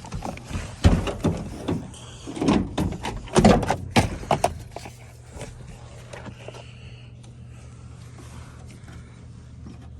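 A run of irregular metal clicks, knocks and short scrapes during the first four or five seconds as a screw is threaded in by hand on a truck part, then a steady low hum.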